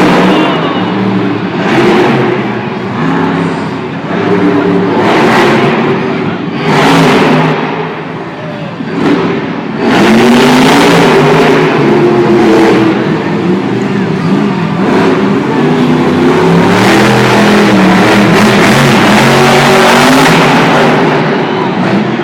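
Monster truck engine revving in short repeated bursts, then running hard at high revs for about ten seconds with its pitch rising and falling.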